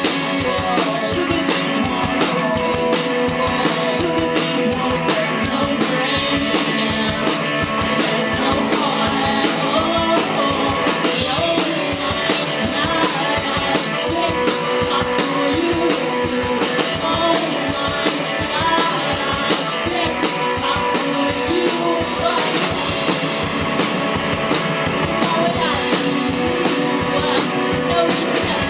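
Live rock band playing: electric guitar over a steady drum-kit beat.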